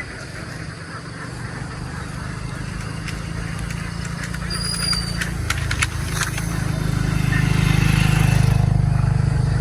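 A motor vehicle's engine running with a steady low rumble, growing louder over several seconds and peaking about eight seconds in. A few sharp clicks come around the middle.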